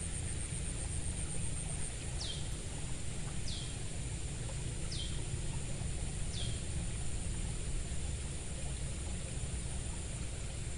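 Rural outdoor ambience: a bird gives four short downward-sweeping whistles about a second and a half apart in the first half, over a steady high insect buzz and a low steady rumble.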